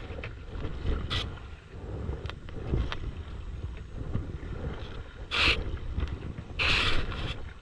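Kayak paddles dipping and splashing in lake water, with three louder splashes about a second in, midway and near the end, over wind rumbling on the microphone.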